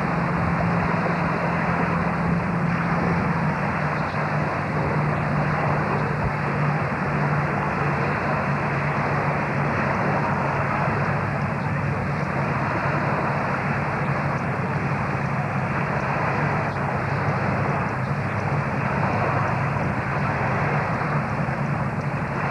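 A boat's engine running steadily, a low hum that drops slightly in pitch about three seconds in, under a constant rushing noise of wind and water.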